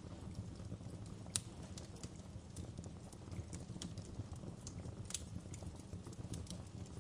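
Wood fire crackling in a fireplace: irregular sharp pops and snaps over a steady low rumble, with two louder pops, about a second and a half in and near five seconds.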